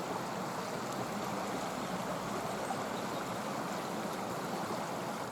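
Steady rushing of a stream running high in flood.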